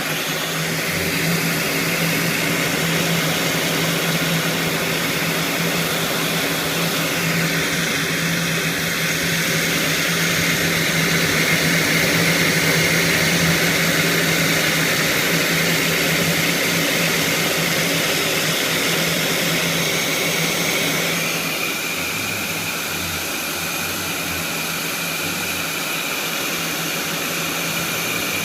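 Electric heat gun blowing steadily on wiring harness sleeves, a loud air rush over a motor hum, its tone shifting slightly about three quarters of the way through.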